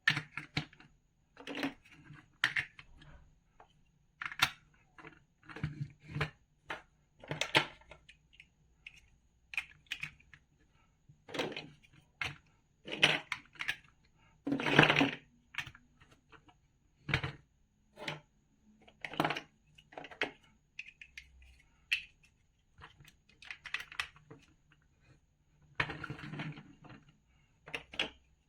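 Plastic building bricks being handled and snapped together: irregular clicks and short clattering taps, some louder than others.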